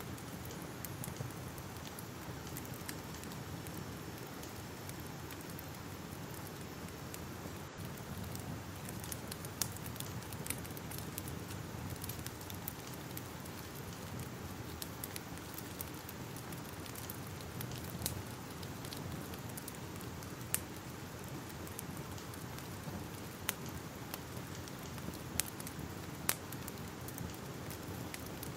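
Crackling fire: a steady low rush of burning with scattered sharp pops and snaps of wood, a handful of louder ones spread through.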